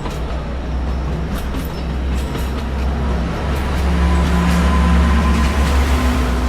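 Alishan Forest Railway train's diesel locomotive running under power as the train pulls out, a deep rumble with an engine note that climbs slightly in pitch and grows louder in the second half.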